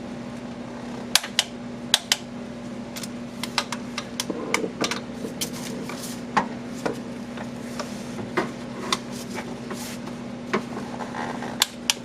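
Irregular sharp metallic clicks and taps of a wrench working the engine mount's 14mm bracket bolts, about a dozen strong ones spread unevenly, over a steady low hum.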